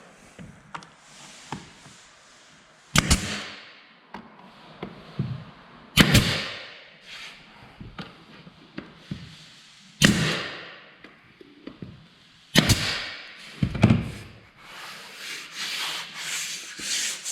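A wooden floor transition strip being nailed down: five sharp single cracks a few seconds apart, each trailing off briefly, with faint rubbing of wood between them.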